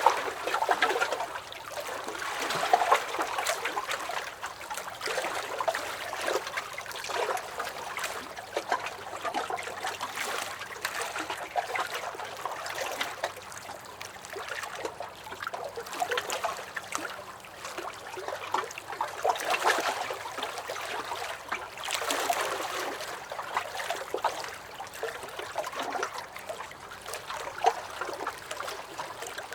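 Small lake waves lapping and splashing against a dock, a continuous run of little slaps and trickles that swells every few seconds.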